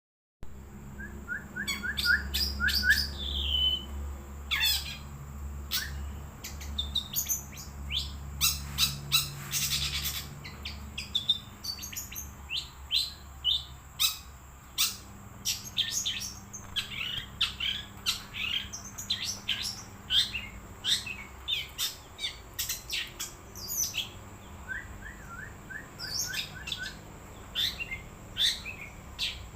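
Long-tailed shrike singing a rapid, varied song of sharp chirps and whistled notes, with short runs of quick repeated notes, over a steady low hum.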